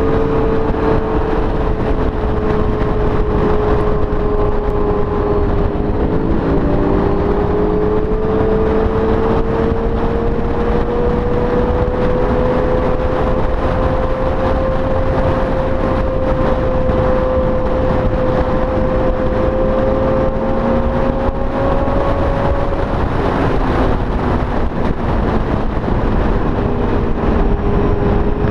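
Motorcycle engines running steadily at road speed, the pitch climbing slowly from about six seconds in and dropping back a few seconds before the end, over heavy wind rush.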